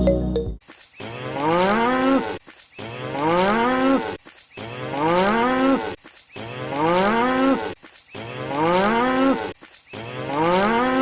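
A cow mooing six times, about every two seconds. Each call rises in pitch and then holds, and the calls are nearly identical, like one moo repeated.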